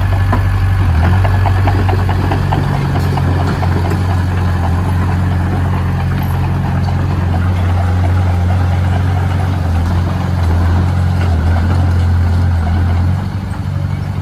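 Engine of a heavy construction machine running steadily with a low hum, its level dipping briefly near the end.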